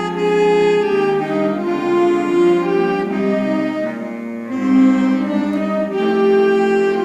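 Student woodwind band playing a slow passage of held notes in several parts, the chords changing about every second.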